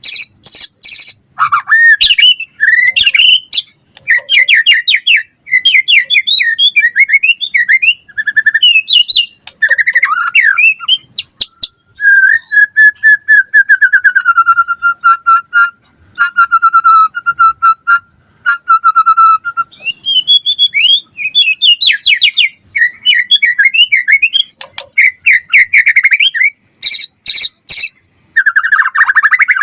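White-rumped shama (murai batu) singing a long, varied song of rapid whistled phrases, chatters and sharp clicks, with a steady buzzing trill in the middle and loud whistles near the end.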